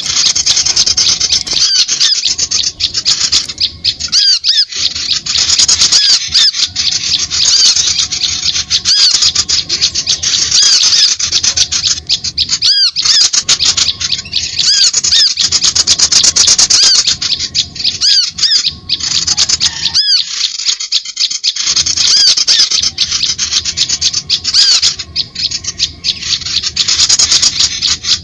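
Many small birds chirping and chattering at once: a loud, dense chorus of rapid high notes that runs on with a few brief dips.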